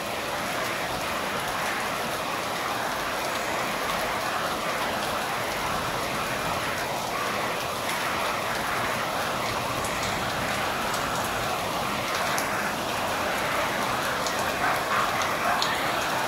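Rain falling steadily at night, a continuous hiss with scattered drops ticking.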